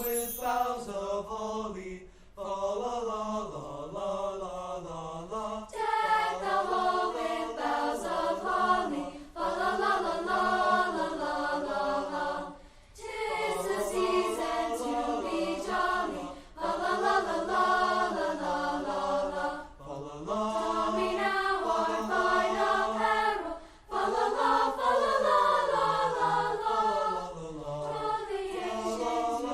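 Student choir singing in several voice parts, high and low together, in sustained phrases a few seconds long with brief breaks between them.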